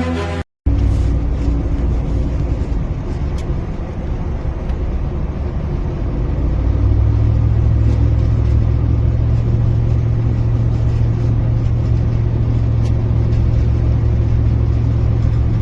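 Buggy engine running steadily while driving, its pitch stepping up and then holding higher about seven seconds in.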